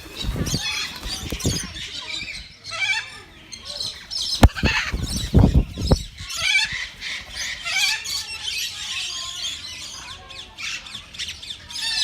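Many parrots squawking and chattering at once in an aviary, a dense stream of short overlapping high calls. There are a few low thuds near the start and again around five seconds in, and a single sharp knock about four and a half seconds in.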